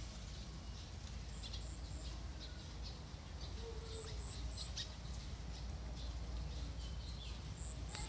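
Small birds chirping, short high chirps scattered irregularly, over a steady low rumble.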